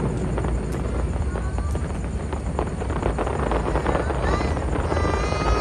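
Crowd of spectators at a fireworks show talking and calling out over a steady low rumble, with scattered faint pops from the fireworks; a couple of higher drawn-out calls come near the end.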